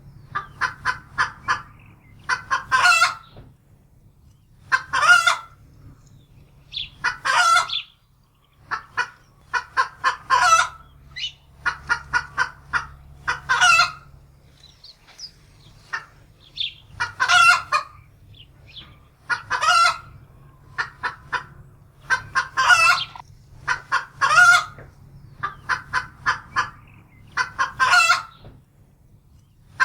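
Domestic hen cackling in alarm after seeing a wildcat: runs of quick clucks, each ending in a loud drawn-out squawk, repeated about every two seconds.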